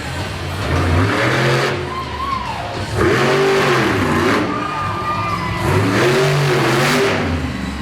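Monster truck engine revving hard, its pitch rising and falling again and again as the throttle is blipped open and eased off.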